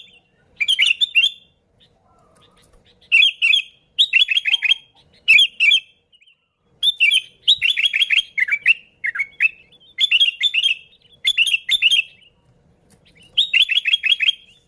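Sooty-headed bulbul (kutilang) singing lively: about ten short phrases of rapid, repeated high notes, each under a second long, with brief pauses between them.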